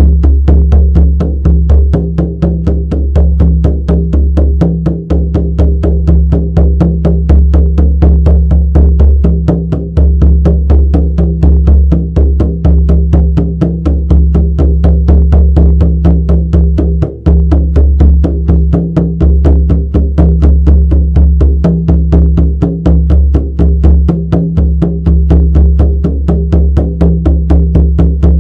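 Shamanic frame drum beaten in a steady, even rhythm of about four strokes a second, each stroke with a deep, booming resonance.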